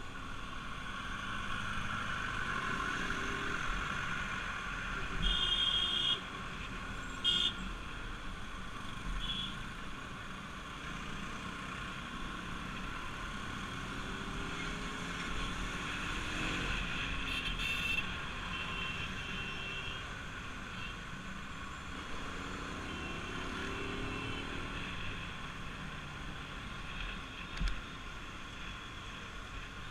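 Bajaj Pulsar RS200 motorcycle engine running on the move, its pitch rising and falling with the throttle, under a steady rush of wind and road noise. Several short horn beeps sound in the traffic.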